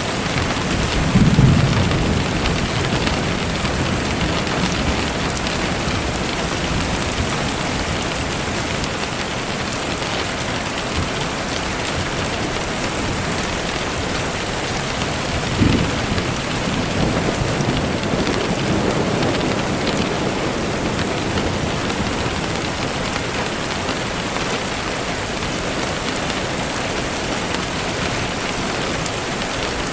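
Steady rain falling, a continuous dense hiss, with brief low rumbles about a second in and again around the middle.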